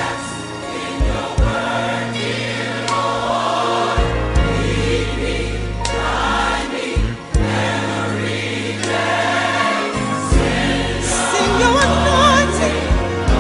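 Gospel-style choir music: voices singing over sustained bass and chords, with a few sharp percussive hits and a solo voice with vibrato near the end.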